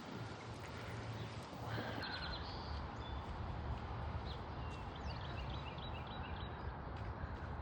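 Birds chirping in short repeated high notes, twice, over a steady low rumble and hiss.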